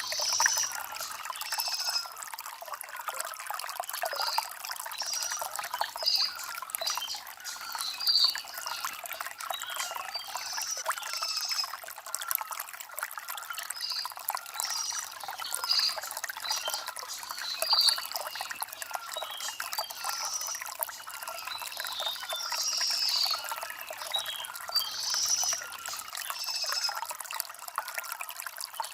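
Shallow stream trickling steadily over stones, with birds chirping in short calls about every second.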